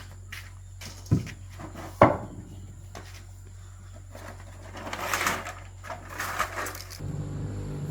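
Hard objects being handled during repair work: two sharp knocks about a second apart, then scraping and rustling, and a low hum that grows fuller near the end.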